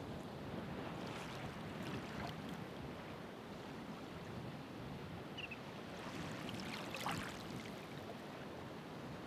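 Ocean waves washing onto the shore: a steady hiss of surf, with two louder surges about a second in and again around seven seconds in.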